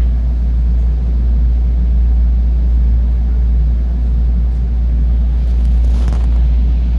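Steady low rumble and hum of a stationary JR 223-series electric train, halted in an emergency stop, with a few faint clicks near the end.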